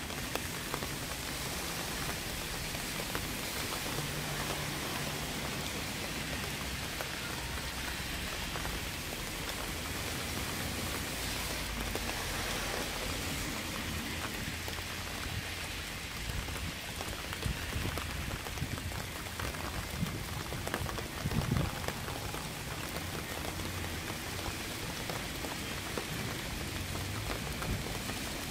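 Steady rain falling: a dense, even hiss with many individual drops ticking, and a short run of louder drop hits about two-thirds of the way through.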